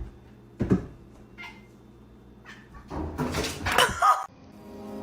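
Domestic cat meowing: one drawn-out, loud call about three seconds in that bends in pitch and stops abruptly, after a couple of short knocks early on.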